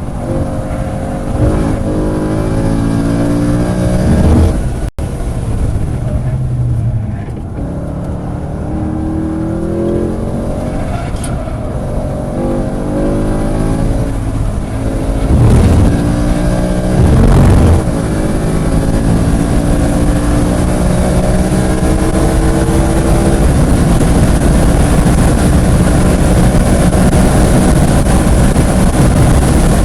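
Track car's engine heard from inside the car at speed, its pitch climbing under acceleration and dropping at gear changes and lifts. Steady wind and road noise run under it, with two brief louder bursts a little past halfway.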